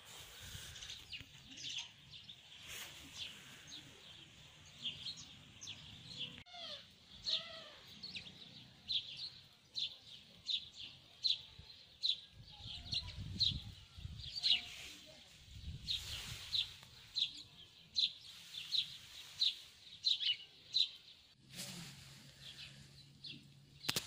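A small songbird chirping over and over, a series of short high chirps at about two a second.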